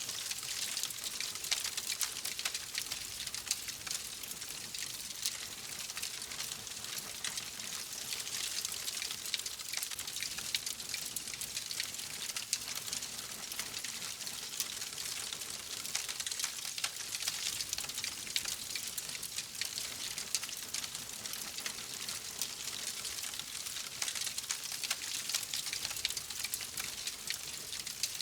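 Wood fire burning in a fireplace with steady fine crackling: a dense run of small pops and snaps over a hiss.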